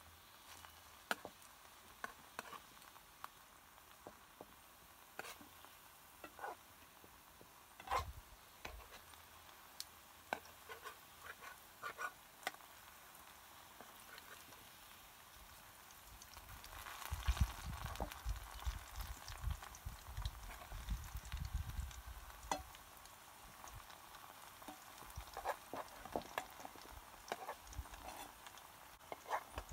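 Ripe plantain slices sizzling in hot oil in a frying pan, with frequent clicks and scrapes of a metal slotted spoon turning them against the pan. The handling gets busier and louder for several seconds a little past the middle.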